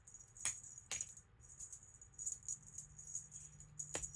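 Light jingling and rattling from a cat's flying bird toy moving back and forth, with a few sharp clicks about half a second, one second and four seconds in.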